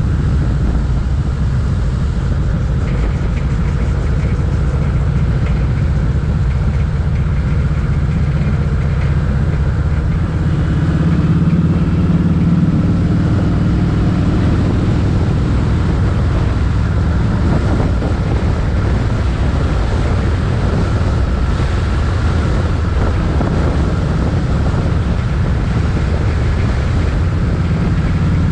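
Motorcycle engine running steadily under way, mixed with a constant rush of wind, growing slightly louder for a few seconds about eleven seconds in.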